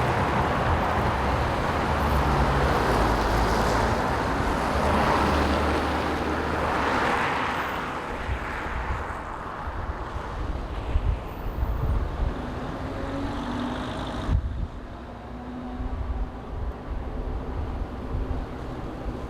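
City street traffic: motor vehicles passing, with wind on the microphone. The sound cuts abruptly to a quieter street scene about 14 seconds in.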